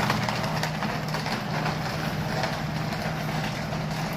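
A steady machine hum, like an engine running, with an even hiss of noise over it.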